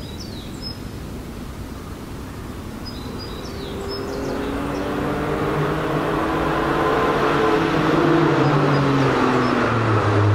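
Porsche 997 Carrera S flat-six with an Innotech performance exhaust, its engine note growing steadily louder over several seconds. A few bird chirps come before it, near the start and about three seconds in.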